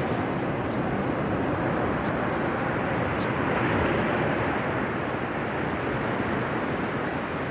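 Ocean surf washing onto the beach: a steady rush of breaking waves that swells a little about four seconds in.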